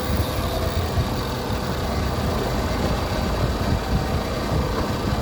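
Boat engine running with a steady low rumble that comes up in level just as it starts, heavy in the low end with an irregular flutter.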